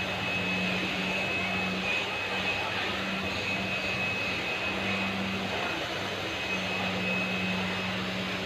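Steady running machine noise: a continuous motor hum with a thin high whine over it.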